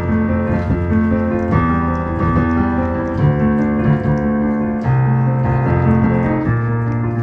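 Piano playing a choral-song accompaniment: held chords over sustained bass notes, changing every second or so.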